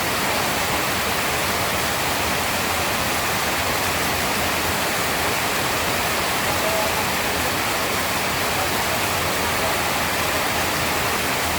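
Steady heavy rain, an even dense hiss with no let-up and no thunder.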